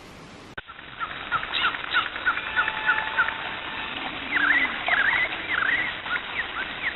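Birds chirping, with many short chirps and sweeping whistled calls and a longer held note near the end.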